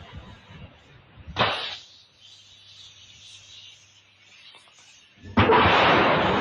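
A rocket's engines igniting at launch: near the end a sudden loud, steady rushing noise starts and keeps going, after a short burst of noise about a second in.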